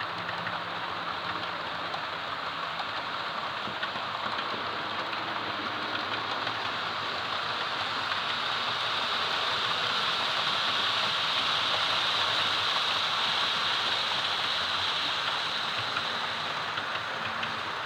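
Model train running on its track: a steady hiss of wheels and motor that grows louder as it nears, peaks about two-thirds of the way through, then fades, with a few faint ticks near the end.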